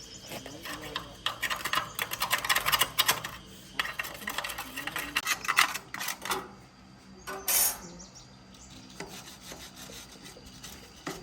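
Hand work on metal parts: scraping and rasping with light metallic clinks, in bursts through the first six seconds. A brief hiss comes about seven and a half seconds in, followed by quieter handling.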